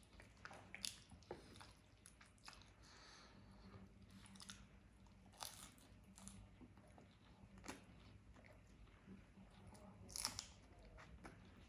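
Faint, close-miked chewing and mouth sounds of a person eating paratha dipped in aloo matar curry. A few sharper wet clicks stand out among the chewing, the loudest about ten seconds in.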